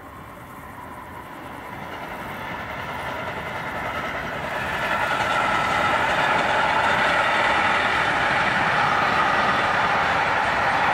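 Freight train hauled by a class 185 electric locomotive passing along the line, its wheels and wagons growing steadily louder over the first five seconds or so and then running on at a steady level.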